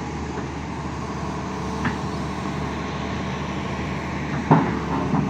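Excavator's diesel engine running steadily, with a faint knock about two seconds in and a louder sharp knock about four and a half seconds in.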